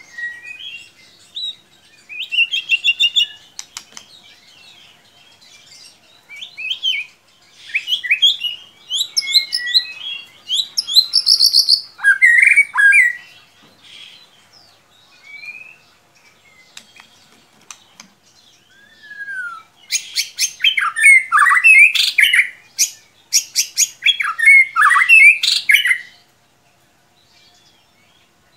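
White-rumped shama (murai batu) singing: bursts of varied whistled phrases and fast chattering notes with short pauses between them. The busiest, loudest run of song comes about two-thirds of the way in, and the song stops a couple of seconds before the end.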